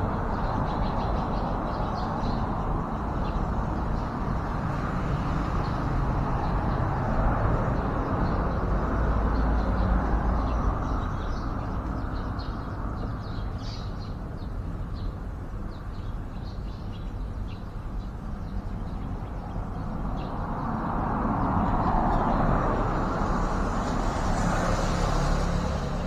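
Steady road-traffic rumble that swells twice as vehicles pass, with faint, short bird chirps over it.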